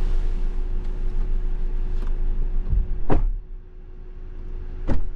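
Car running, a steady low rumble with a constant hum, broken by two sharp knocks about three and five seconds in, with the rumble dropping away briefly between them.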